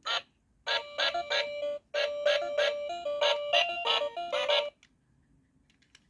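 Happy Duck toy electronic organ: a short beep, then a tinny built-in electronic melody of quick stepped notes over a held tone for about four seconds, stopping abruptly.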